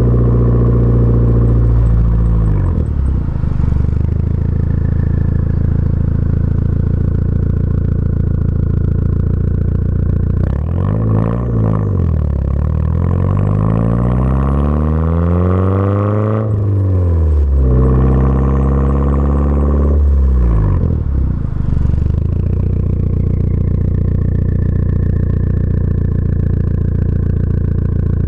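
Audi A4 Avant 1.8T's turbocharged four-cylinder engine through a catless downpipe and 3-inch cat-back exhaust, revving up and down several times. About halfway through, the revs make one long climb that cuts off sharply, then rise and hold again before dropping back to a steady low note.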